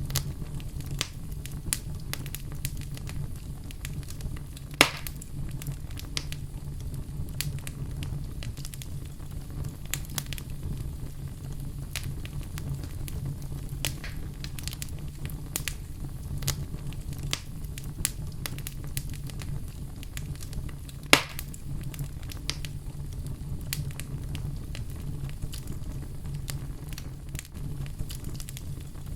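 Wood fire crackling in a fireplace, with a steady low rumble under a constant scatter of small crackles. Two much louder pops stand out, about five seconds in and about twenty-one seconds in.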